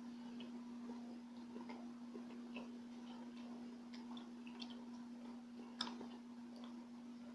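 Close-miked mouth sounds of someone chewing palitaw, a sticky rice cake: scattered small wet clicks and smacks, with one sharper click about six seconds in. A steady low hum runs underneath.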